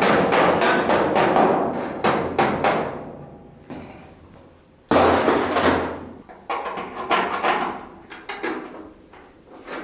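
Hammer blows on steel car bodywork: a quick run of strikes, a lull, one heavy blow about five seconds in, then more scattered strikes.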